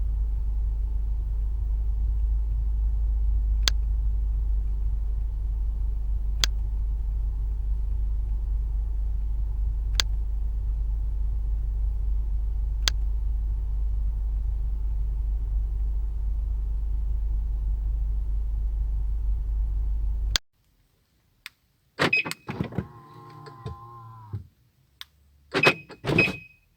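A steady low rumble with a few sharp clicks, then a VW Tiguan being locked. The sequence runs: a short high chirp from the alarm with the lock actuators clunking, a small electric motor whirring for about two seconds, then two more quick chirps near the end.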